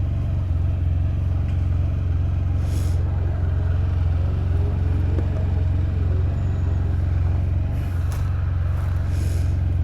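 Small 125cc motorcycle engine idling steadily, with no revving.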